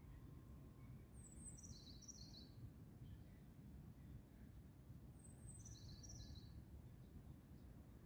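A bird singing faintly, twice: each time a quick run of high notes falling in pitch, about a second and a half long, over a low steady background rumble.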